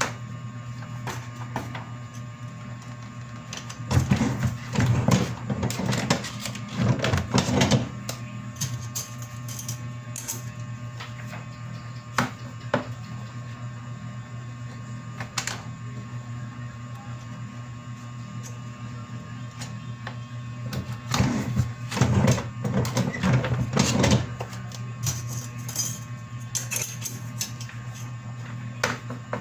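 A printing machine running with a steady hum, with two stretches of louder, irregular clattering, one about four seconds in and one about twenty-one seconds in.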